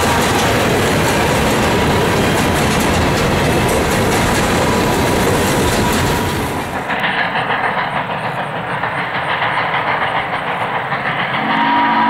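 Freight cars of a steam-hauled train rolling close by, a loud steady rush with wheels clicking over the rail joints. About seven seconds in it drops abruptly to a quieter, more distant rumble, and near the end a steam whistle starts sounding a steady chord.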